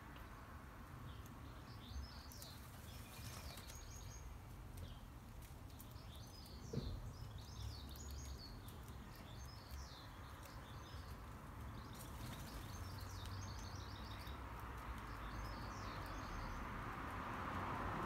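Small garden birds chirping in quick runs of short high notes at a feeding station, over a low steady background rumble. A single thump about seven seconds in.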